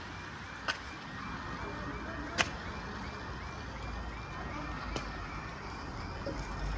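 Level crossing warning alarm sounding: a short high tone repeating about three times a second over steady background noise. A few sharp clicks cut through it, the loudest about two and a half seconds in.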